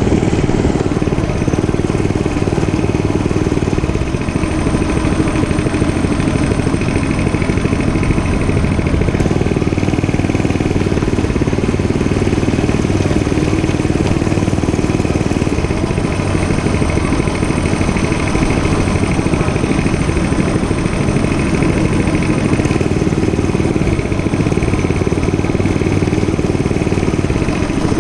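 Gas dirt bike engine running steadily, with no big revs.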